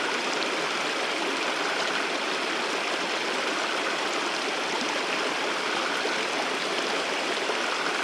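Water of a wadi stream and waterfall rushing in a steady, even hiss.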